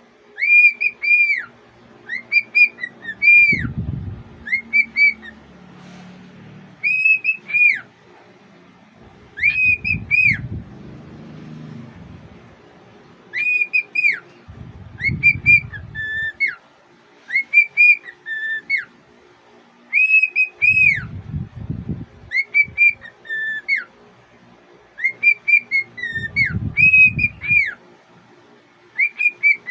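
Young cockatiel whistling its song: repeated short, arched whistle notes in phrases of two to four, with short pauses between them. A few low rumbles come between phrases.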